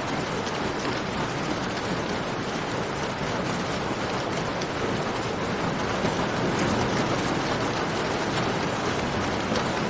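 Steady heavy rain with a campfire crackling, its sharp pops scattered through the rain.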